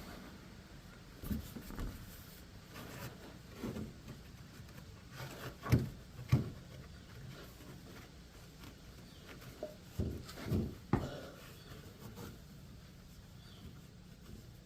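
Scattered clunks, knocks and rubbing from things being handled, with two sharper knocks about six seconds in and a cluster of clunks near eleven seconds.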